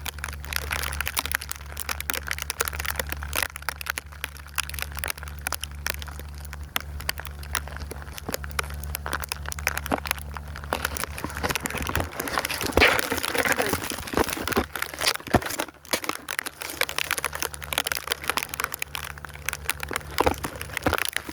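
Dense crinkling and crackling handling noise from a phone in a plastic waterproof case being moved about, over a steady low drone that fades out about halfway through.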